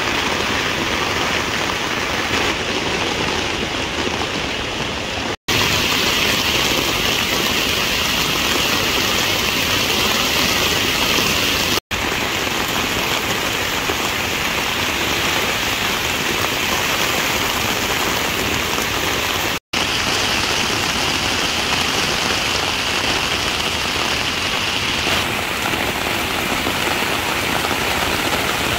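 Heavy rain falling steadily, a dense even hiss. It is broken three times by a split-second drop-out to silence, each followed by slightly different rain.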